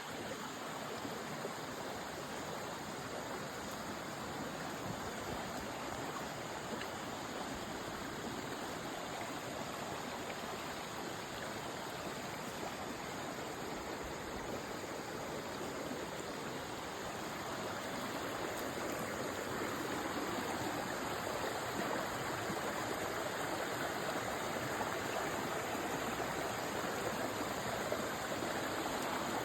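Flowing water rushing steadily, a little louder in the second half.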